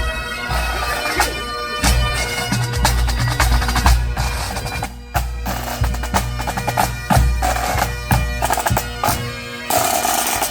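Bagpipes playing with drums, a pipe band: a steady drone under the chanter melody, with regular drum beats. The music cuts off suddenly near the end.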